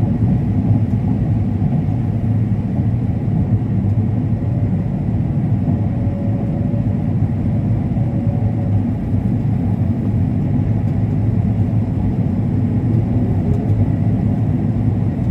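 Combine harvester running, a steady low rumble that holds even throughout.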